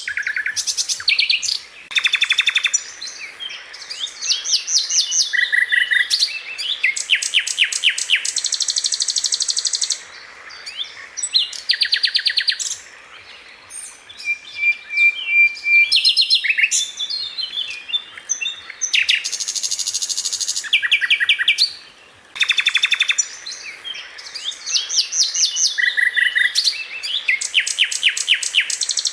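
Sikatan londo flycatcher singing: phrase after phrase of rapid-fire, high-pitched trilled notes, each burst lasting a second or two with short pauses between.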